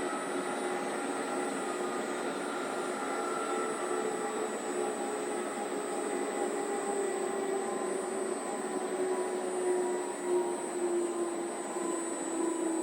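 Large 39 kg commercial washing machine running, a steady motor and drum whir with a whine that drifts slowly down in pitch.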